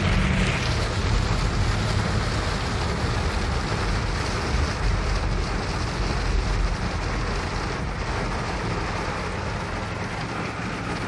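Rain falling steadily, as an even hiss that slowly eases a little.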